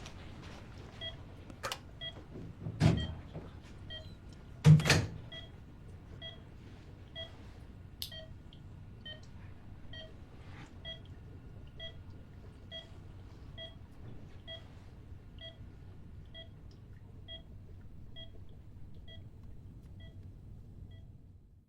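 Patient monitor beeping steadily about once a second. Two dull thumps about three and five seconds in.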